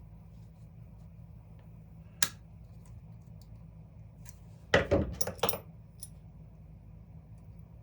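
Small metal parts and hand tools clinking and clattering on a workbench: one sharp click, then a short burst of several metallic knocks a few seconds later, over a steady low hum.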